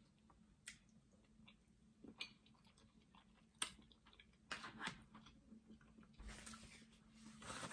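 Quiet close-up chewing of a cheese-and-seafood stuffed mushroom: faint wet mouth clicks and smacks scattered every second or so, with a little more noise near the end.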